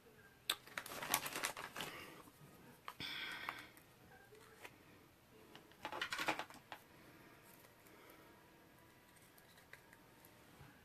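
Faint clicks and short rustling, scraping bursts of small craft supplies being handled on a tabletop, in three brief spells over the first seven seconds, then only an odd tick.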